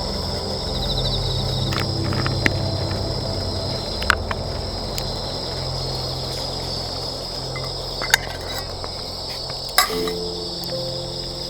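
Night insects chirping in a steady, continuous high trill, over a low, steady background of music, with a few sharp clicks scattered through.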